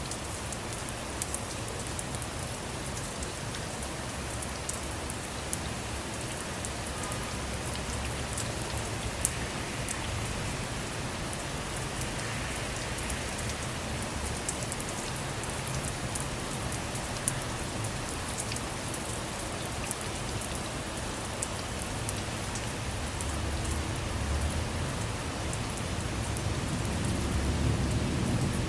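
Steady rain pattering on a car's roof and windows, with sharp individual drops ticking through it. A low rumble of thunder builds near the end.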